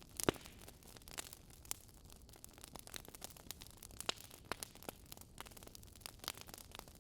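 Wood fire crackling, with irregular sharp pops and snaps over a soft hiss; the loudest pop comes just after the start.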